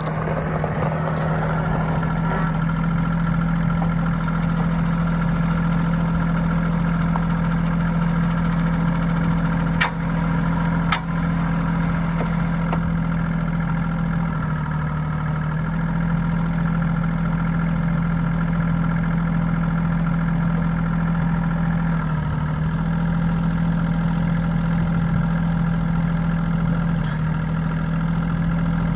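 Bobcat CT1021 sub-compact tractor engine idling steadily, with two sharp clicks about ten and eleven seconds in.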